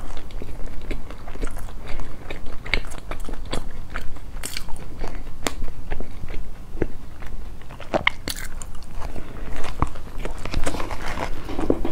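Close-miked chewing and crunching of a flaky mooncake pastry: a run of irregular crisp clicks as the flakes break between the teeth.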